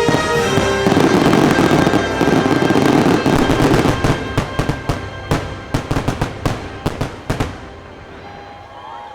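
Holiday fireworks finale: a dense barrage of bangs and crackling for a few seconds, then separate bangs that thin out and stop near the end, with the show's music underneath.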